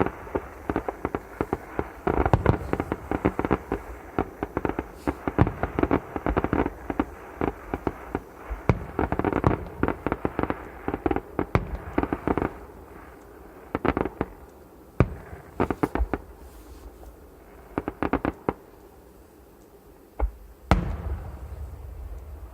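Fireworks going off: a dense run of rapid bangs and crackling for about twelve seconds, thinning to scattered separate booms, with one loud boom and a rumbling tail near the end.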